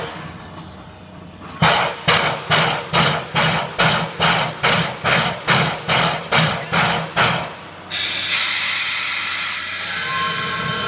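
Climax geared steam locomotive working, its exhaust chuffing up the stack a little over twice a second for about six seconds, then giving way to a steady hiss of steam. Faint high steady tones come in near the end.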